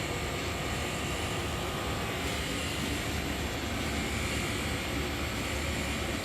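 Steady low rumble of a moving vehicle, with an even hiss over it and no change in pitch.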